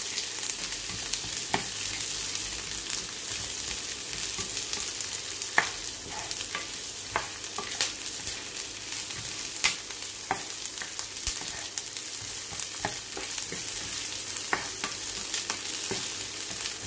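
Sliced onions sizzling in hot oil in a nonstick frying pan, stirred with a spatula, with scattered sharp clicks and pops over a steady hiss.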